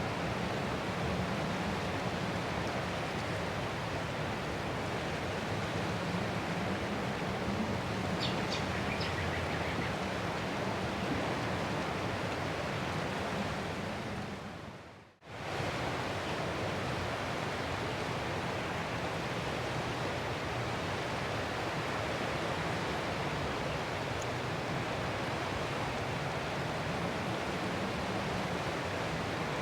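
Ocean surf rushing steadily as an even, unbroken wash of noise, used as sleep noise. About halfway through it fades out for a moment and comes straight back.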